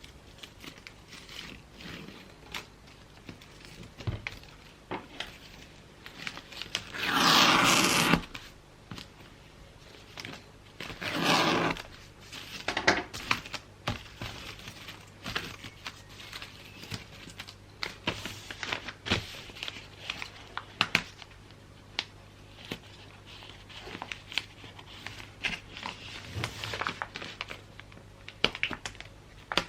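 Gift wrapping by hand: wrapping paper crinkling and rustling with many small clicks and taps, broken by two louder, longer rips about four seconds apart.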